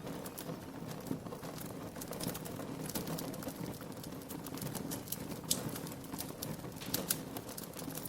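Wood fire crackling in a fireplace: irregular sharp pops and snaps over a steady low bed of sound.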